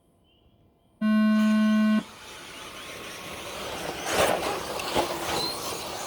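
A one-second electronic start tone from the race timing system, then a field of 2WD stadium RC trucks taking off over dirt: a hiss of motors and tyres that grows steadily, with two sharp knocks about four and five seconds in.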